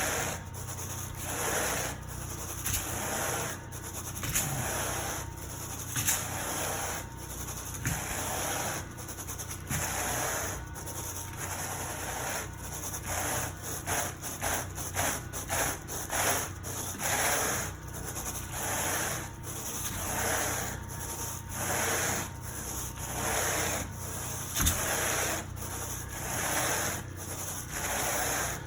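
Carpet rake dragged through carpet pile in repeated scratching strokes, about one a second, with a run of quicker, shorter strokes midway.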